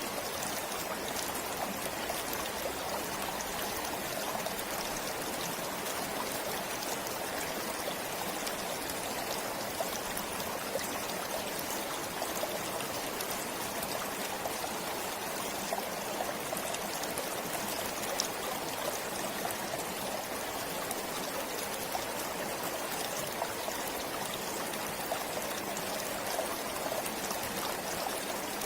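Forest stream flowing over stones, a steady rushing with small splashes and trickles scattered through it.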